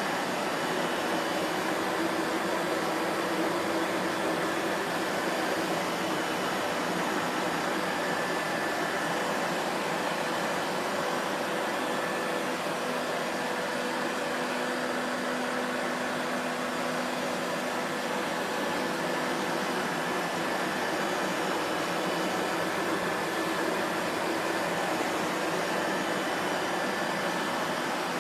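Vacuum cleaner motor running steadily, an even rushing of air with a faint steady hum and whine over it and no change in level.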